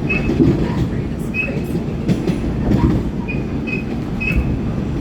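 R46 subway car running on the track: a steady low rumble with wheels clacking over the rails and about five short, high wheel squeals.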